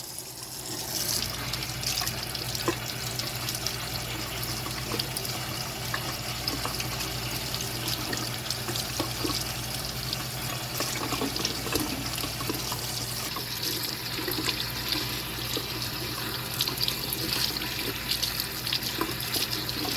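Tap water running steadily into a sink while a vacuum cleaner filter is rinsed under the stream, with small irregular splashes.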